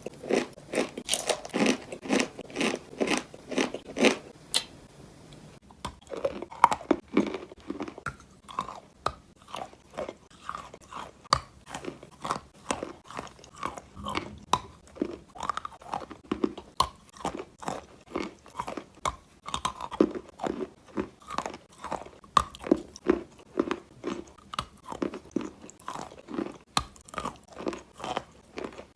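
A person biting and chewing chalk close to the microphone: dense crunching for the first few seconds, a brief pause, then steady rhythmic chewing at about two chews a second.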